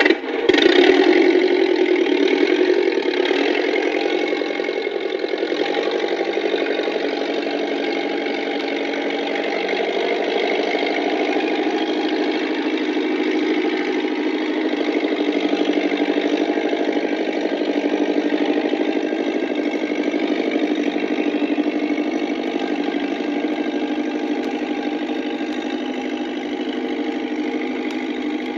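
Massey Ferguson tractor engine just after starting, running steadily at a constant level.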